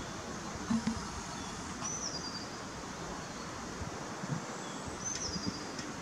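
Steady outdoor background hiss with two high, thin bird calls, each a short whistle dropping slightly in pitch, about two and five seconds in.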